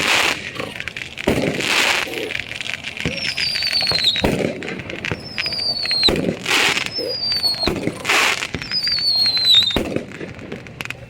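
Fireworks going off in a string of sharp bangs and crackles. About four high whistles, each about a second long, drop slightly in pitch as they sound.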